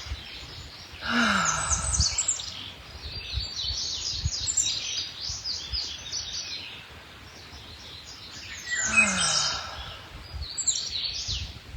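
Several songbirds chirping and trilling throughout, with two audible sighing exhales, each falling in pitch, about a second in and again near nine seconds: 'letting go breaths' taken in a stretch.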